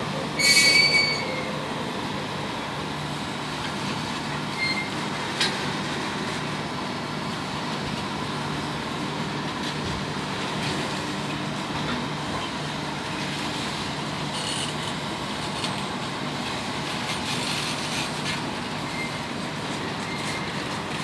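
RORO freight train of flat wagons loaded with buses rolling through the yard: a steady rumble of wheels on rail with a short, loud, high-pitched wheel squeal about half a second in and a few fainter squeals and clicks later.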